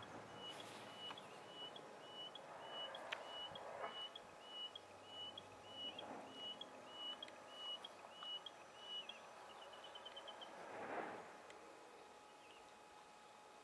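A small songbird repeats one short whistled note with an upward flick at the end, a little under two a second, then finishes with a quick trill. Near the end a brief rushing noise swells up and fades; it is the loudest moment.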